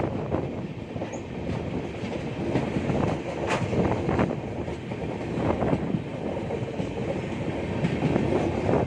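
Passenger express train running at speed, its coach wheels clattering over the rail joints with many sharp knocks over a steady rumble.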